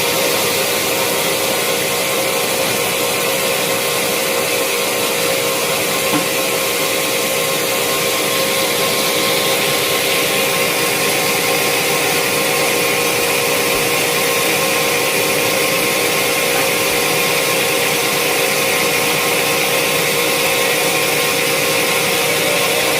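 Sawmill saw running steadily, cutting teak wood: a continuous machine hum with a strong hiss, its tone shifting slightly about ten seconds in.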